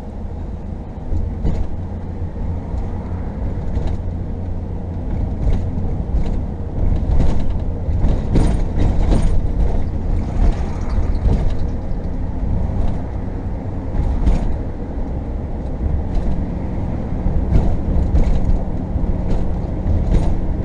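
RV driving, heard from inside the cab: a steady low rumble of engine and tyres, with frequent short rattles and knocks from the rig's fittings as it goes over rough road.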